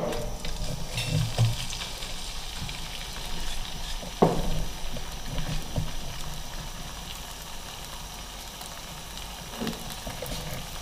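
Grated potato paste sizzling quietly in a little hot oil in a nonstick frying pan, with a single knock about four seconds in.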